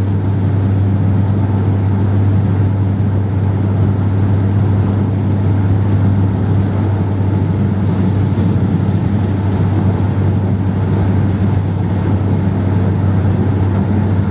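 1957 Ford Thunderbird V8 cruising, heard from inside the cabin as a steady low engine drone with road noise.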